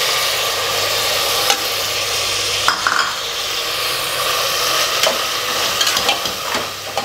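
Chopped tomatoes sizzling in hot oil in an aluminium pressure cooker as they are stirred with a steel slotted spatula. The spatula clicks and scrapes against the pot a few times, most often near the end.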